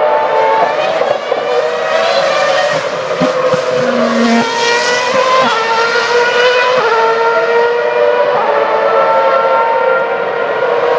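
Formula One cars' 2.4-litre V8 engines at full throttle, their high pitch climbing and dropping sharply with each upshift, several times over.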